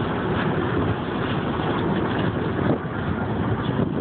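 A sportfishing boat's engine running steadily, with wind and water noise.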